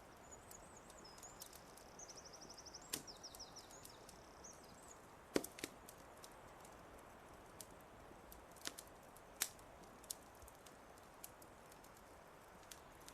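Wood fire crackling faintly over a soft steady hiss, with scattered sharp pops, the loudest about five seconds in. A songbird calls high and thin in the first few seconds, with a quick trill of repeated notes in the middle of it.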